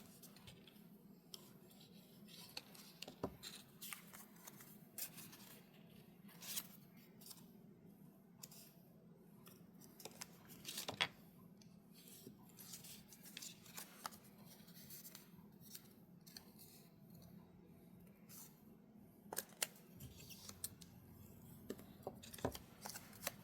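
Faint paper handling: scattered soft rustles and clicks of cardstock being folded and creased, over a faint steady hum.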